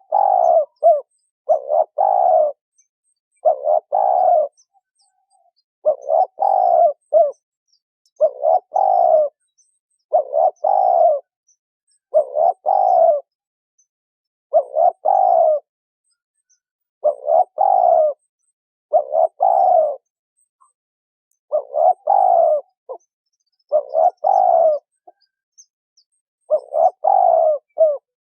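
Female spotted dove cooing in short phrases of a few low coo notes, each about a second long and repeated about every two seconds. This is the hen's call used to stir male doves into calling.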